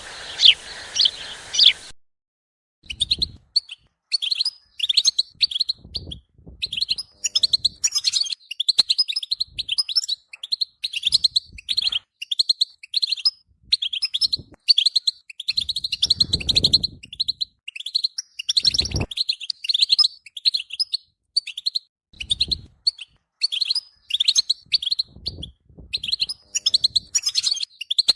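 European goldfinch singing: a long run of rapid, twittering phrases. Two low thuds come about two thirds of the way through.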